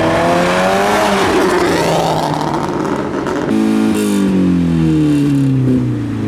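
Modified car's engine revving: the pitch climbs over the first second, then a fresh burst of throttle about three and a half seconds in falls steadily in pitch as the car eases off.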